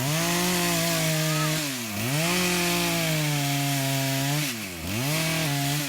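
Gas chainsaw running at high revs, its pitch dipping sharply and climbing back twice as the throttle is let off and squeezed again, about two seconds and five seconds in.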